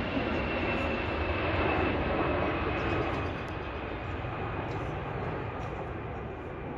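Tweetsie Railroad's narrow-gauge steam train rolling slowly into the station, a steady rumble and hiss with a faint high squeal that fades over the first three seconds. It grows a little quieter about three seconds in as the train slows.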